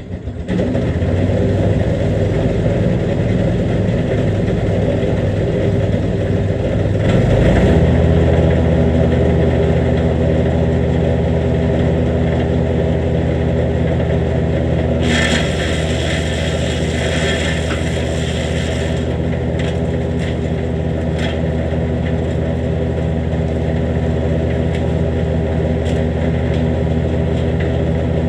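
Jansen GTS-1500 wood chipper's petrol engine starting and running steadily. About seven seconds in it steps up to a higher speed. A rushing hiss sits on top for about four seconds in the middle.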